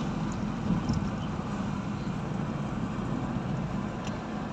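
Toyota Corolla EE100 being driven, its carbureted 2E four-cylinder engine running steadily under road and tyre noise.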